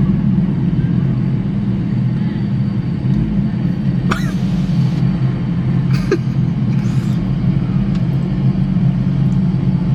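Steady engine and road drone heard from inside a moving car's cabin, with a few brief sharp noises about four, six and seven seconds in.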